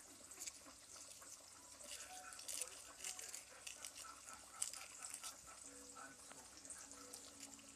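Faint crackling and small clicks of eggshell being peeled off a boiled egg with the thumb, with a couple of sharper ticks.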